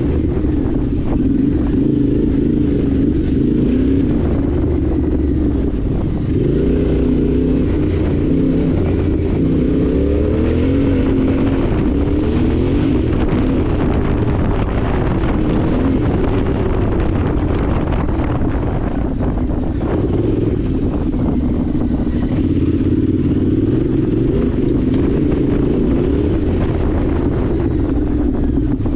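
Yamaha Ténéré 700's parallel-twin engine running under way, its pitch rising and falling with the throttle, over a steady rushing noise.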